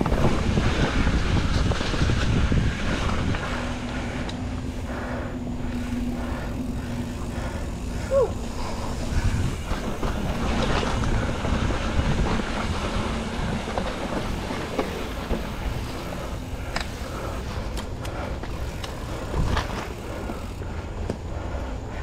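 Mountain bike riding along a dirt trail: tyre noise with a steady low rumble and many short clicks and knocks from the bike rattling over the ground.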